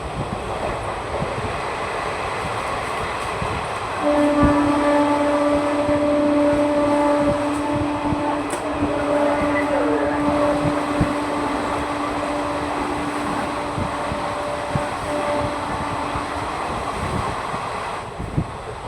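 Indian Railways ICF passenger coaches running on the track, with rumble and wheel knocks over the rails. About four seconds in, a train horn sounds one long, steady blast of about twelve seconds.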